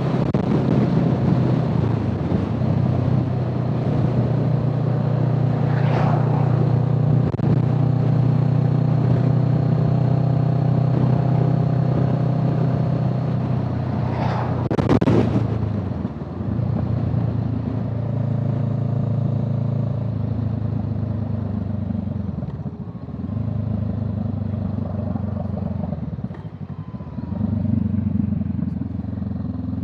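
A road vehicle's engine running steadily as it is driven, with its note dipping and changing several times in the second half. A brief rushing sound comes about halfway through.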